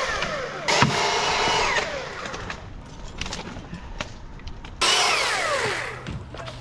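Chainsaw engine revved twice, about a second in and again near the end, each time the pitch falling away as the throttle is released and it drops back toward idle.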